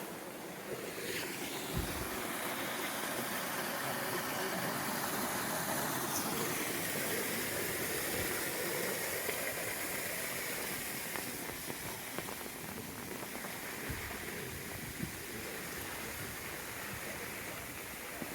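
Steady rain falling, with running water, making an even hiss. Two soft, low thumps stand out, one about two seconds in and one a little past the middle.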